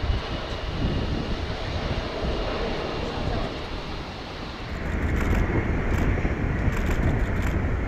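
Boeing 737-800 jet engines at taxi power: a steady rumble with a faint high whine, and wind on the microphone. About halfway through the high whine drops away and the low rumble grows louder.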